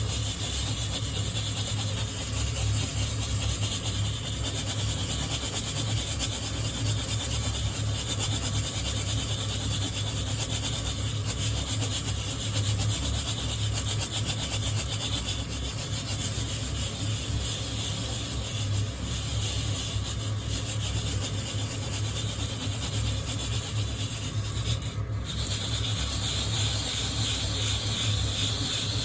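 Coffee beans being shaken in a hand-held wire-mesh roasting net, rubbing and rasping against the mesh continuously, with a brief break about 25 seconds in. A steady low hum runs underneath.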